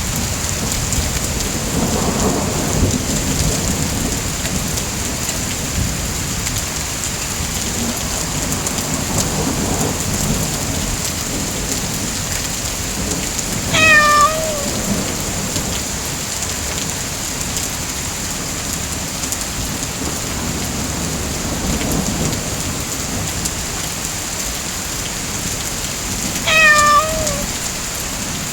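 Steady rain with low rolling thunder rumbles, and a cat meowing twice: once about halfway through and once near the end, each a short call falling slightly in pitch.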